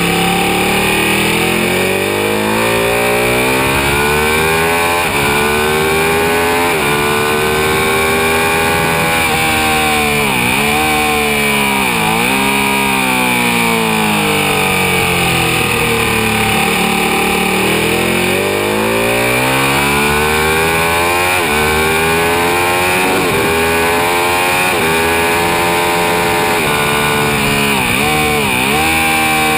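Ducati 1199 Panigale's Superquadro V-twin at full song on track. The revs climb through the gears, then drop in quick steps with sharp dips on the downshifts, over a steady rush of wind.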